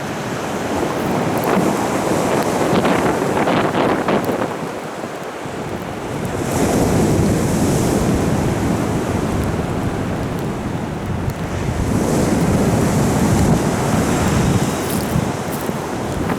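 Stormy Black Sea surf: waves breaking and rushing in, surging three times, with wind buffeting the microphone.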